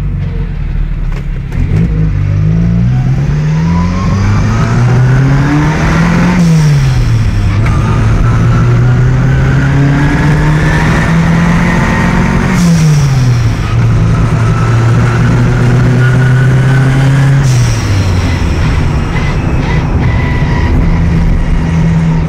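Classic Mini's four-cylinder engine heard from inside the cabin, accelerating through the gears: its pitch climbs steadily, drops sharply at a gear change about six seconds in, climbs again to a second change about twelve seconds in, then holds fairly steady, dipping once more near the end.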